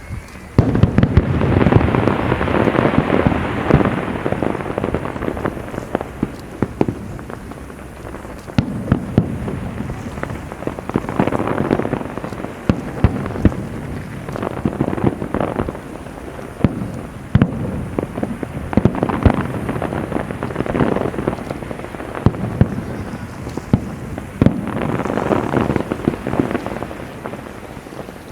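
Fireworks display: many sharp bangs over a dense crackle of bursting shells. It starts about half a second in and swells in several waves.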